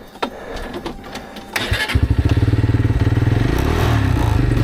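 A road motorcycle's engine is started about two seconds in, catching after a short burst of cranking, then running at a steady, evenly pulsing idle. A few sharp clicks and knocks come before it.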